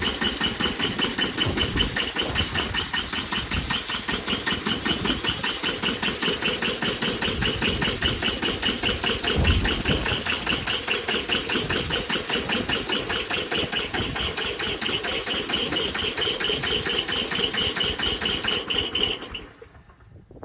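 Bolens G174 tractor's worn two-cylinder diesel engine keeps up a fast, steady, rhythmic clatter, then cuts off abruptly about 19 seconds in. The engine is hard to start because of low cylinder compression.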